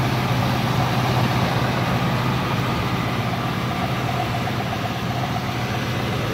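A 1976 Cadillac Eldorado's 500-cubic-inch V8 idling steadily with a low, even hum, heard with the hood open.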